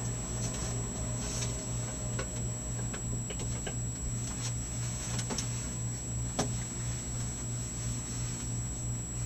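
Electric fireplace running: a steady low hum with a slight regular pulsing, and scattered soft clicks and pops, the sharpest about six and a half seconds in.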